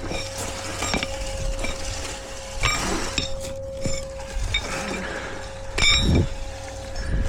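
Steel concrete form stakes being pulled and handled, clinking and clanking against each other in several separate ringing metallic strikes, the loudest about six seconds in.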